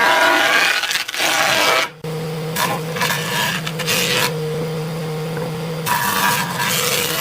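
A power tool working wood: a steady motor hum, broken by several rough scraping passes as it cuts into the log.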